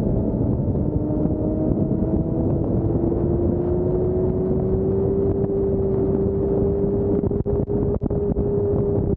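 Motorcycle riding at road speed: wind buffeting the camera's microphone over the engine and road noise, with a steady tone that slowly rises in pitch. A few brief dips in the noise near the end.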